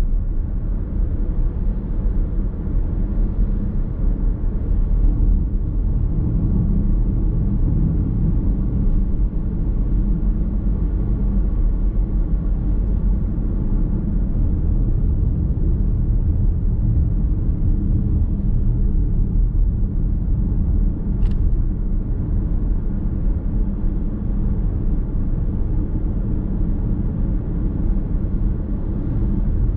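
Car driving on the road, heard from inside the cabin: a steady low rumble of road, tyre and drivetrain noise. A single small click comes about two-thirds of the way through.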